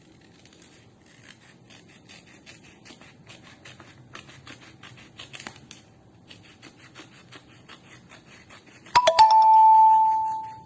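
Scissors snipping through an A4 paper strip in quick, repeated cuts. About nine seconds in, a loud bell-like chime rings once and fades out over a second and a half.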